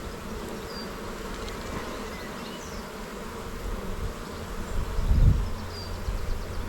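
Honey bees humming steadily around a hive that is open for inspection. A louder low rumble comes about five seconds in.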